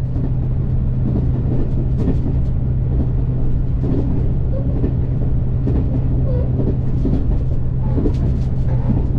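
Running noise of a KiHa 283 series diesel express railcar: a steady low drone with rumble underneath and irregular knocks and rattles.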